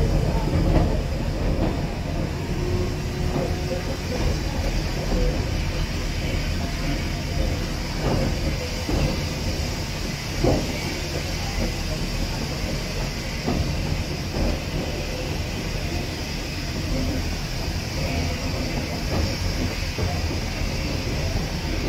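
Railway autocoach running along the track, heard from its driving end: a steady low rumble of the wheels with a few knocks over rail joints and pointwork, the clearest about halfway through, over a steady hiss.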